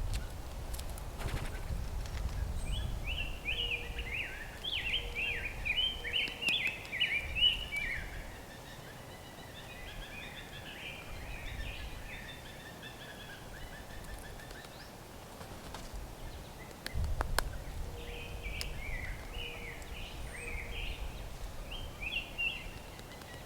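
A songbird singing a rapid, jumbled run of short high chirps in two bouts, the first a few seconds long and trailing off, the second near the end, over low outdoor rumble with a few sharp knocks.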